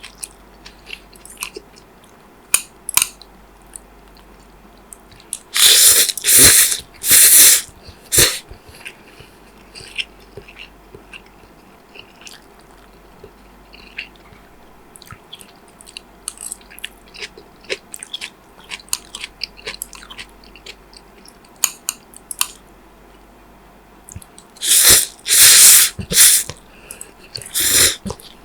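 Close-miked eating: soft chewing and small wet mouth clicks. Twice there is a cluster of three or four loud, noisy bites or slurps, about six seconds in and again near the end.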